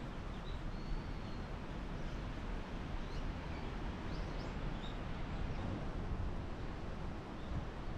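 A few short, high bird chirps, spaced a second or two apart, over a steady rushing outdoor background noise heaviest in the low end.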